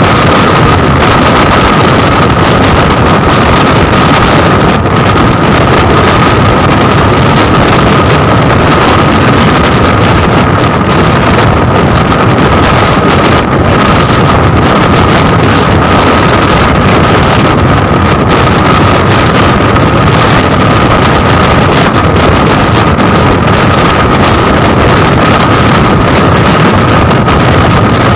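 Loud, steady running noise of a moving express train with heavy wind buffeting on the microphone, and a thin high whine running through it without a break.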